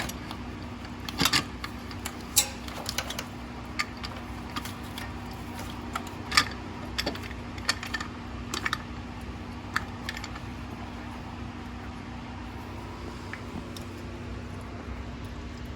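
Light metallic clicks and clinks of hand tools and engine parts being handled, scattered and irregular, thinning out after about ten seconds, over a steady low hum.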